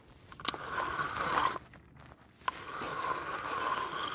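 Spinning fishing reel being cranked in two spells with a rough grinding scrape; the angler calls the reel broken.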